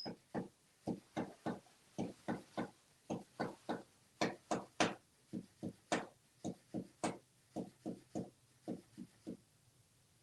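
A fish flopping against a hard surface as a parrot wrangles it: a run of short knocks, irregular at about two to three a second, that stops shortly before the end.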